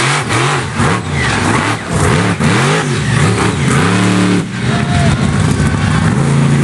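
Monster truck engine revved hard, its pitch climbing and falling about five times in quick succession, then holding a steadier note near the end.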